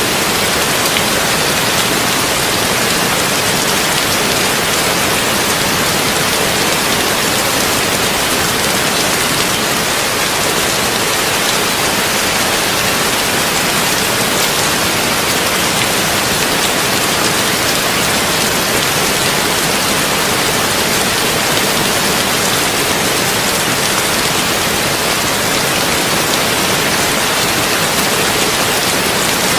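Heavy rain falling on a tin roof: a dense, even hiss that holds steady, with no thunder.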